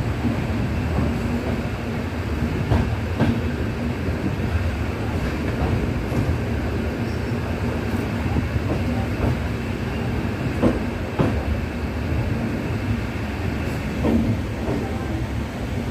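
Passenger train running on the rails: a steady low rumble with scattered clicks and knocks from the wheels on the track.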